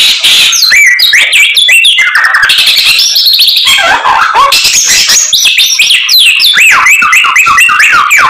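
Samyong songbird singing nonstop in rapid, varied phrases of quick whistled sweeps and chirps, packed with mimicked calls of other birds.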